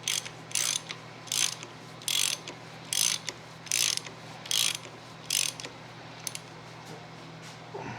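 Hand ratchet clicking in repeated short strokes, about one every 0.8 seconds, as fasteners are snugged down. The strokes stop a little past halfway.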